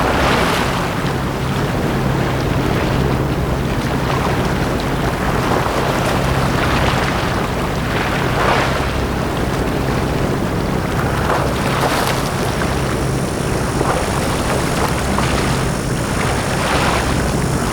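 Small sea waves washing up on a beach, swelling and breaking every few seconds over a steady low hum, with some wind on the microphone.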